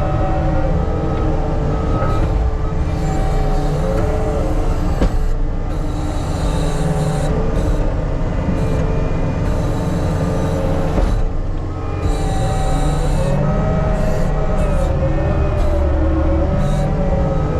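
Diesel engine of a piece of earthmoving equipment running steadily while grading, its pitch dipping and rising a few times as the load changes.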